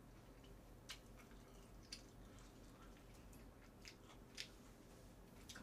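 Near silence with faint chewing of a mouthful of food and a few soft clicks, the clearest one just past four seconds in.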